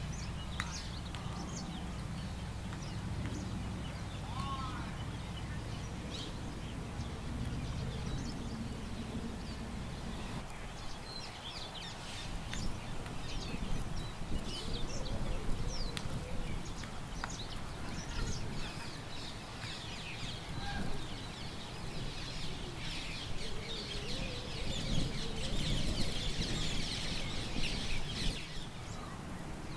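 Outdoor birdsong: many small birds chirping and calling, thickening into a dense burst of chirps toward the end. A low wind rumble runs underneath and is strongest in the first third.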